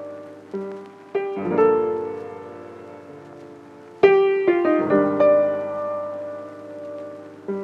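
Background piano music: slow struck notes and chords ringing out over a held low note.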